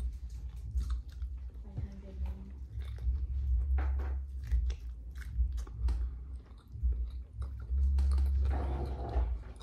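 A person biting into and chewing a slice of loaded pizza close to the microphone, with many short wet mouth clicks and smacks and some crunch of the crust.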